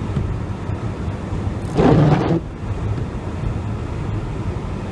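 Inside a vehicle driving on a snow-covered road: a steady low rumble of engine and road noise, with a louder burst of rushing noise about two seconds in.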